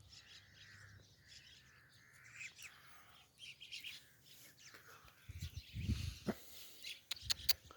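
Small birds chirping, with a few low thumps and sharp clicks in the second half.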